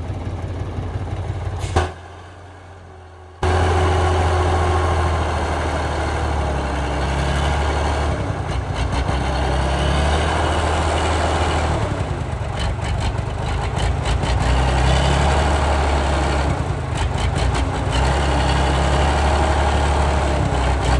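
Heavy log truck's engine running steadily with a strong low hum. It drops away briefly about two seconds in, then comes back loud, with scattered clicks later on.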